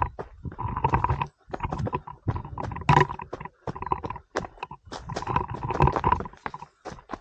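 Footsteps of a runner on a rocky trail: irregular thuds and scuffs in quick clusters, with a few short pauses.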